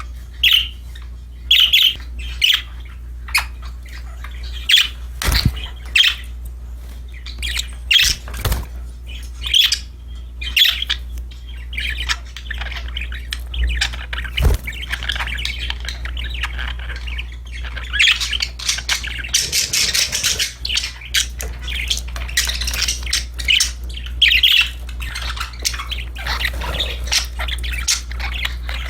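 Pet budgerigars chirping and squawking in short repeated calls, breaking into denser continuous warbling about halfway through, over a steady low hum.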